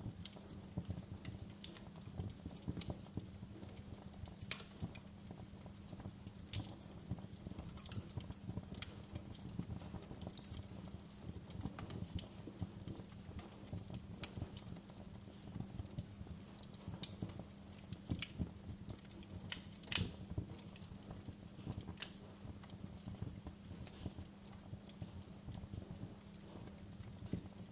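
Wood fire crackling in a fireplace: a constant scatter of small irregular pops and snaps over a low steady hum, with one louder pop about twenty seconds in.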